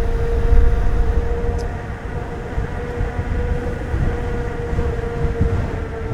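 Bosch Gen 4 e-bike mid-drive motor whining with a steady pitch while the bike is ridden, over low wind rumble on the microphone.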